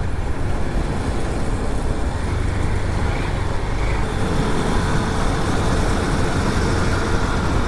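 Motorcycle riding at speed on a highway, heard from the rider's camera: a steady rush of wind and road noise with the engine running evenly underneath.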